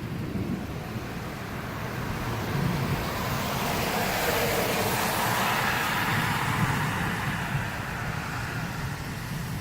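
A vehicle passing on a wet road: the hiss of tyres on wet pavement swells to a peak around the middle and fades away, with rain falling.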